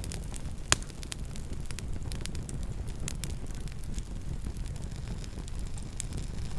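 Campfire burning with a low steady rumble and frequent scattered crackles and pops, one pop about three-quarters of a second in much louder than the rest.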